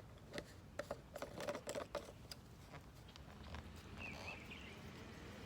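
A Yorkshire terrier lapping water, an irregular run of quick wet clicks for about two seconds.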